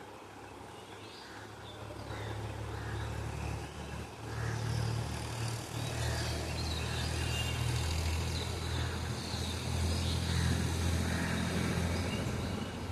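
A low, steady engine rumble, like a motor vehicle running, builds up over the first few seconds and cuts off near the end. Birds chirp throughout.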